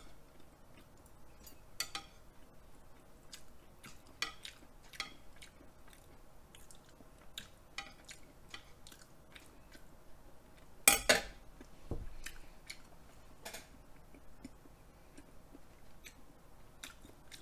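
Close-miked chewing and small mouth sounds, with metal chopsticks tapping and scraping on a plate; a much louder clack about eleven seconds in.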